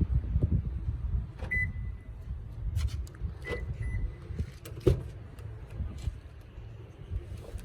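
Several sharp clicks and three short electronic beeps, the first one held a little longer, over a low rumble of handling and wind noise on the microphone.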